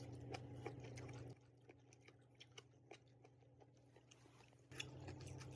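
Faint chewing and small mouth clicks over a low steady hum. The hum drops out for about three seconds in the middle, then returns.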